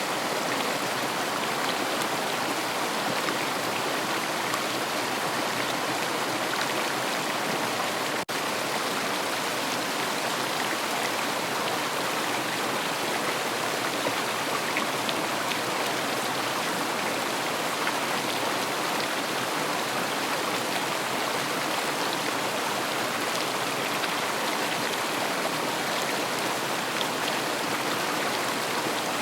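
River water flowing steadily, an even rushing noise, with a split-second dropout about eight seconds in.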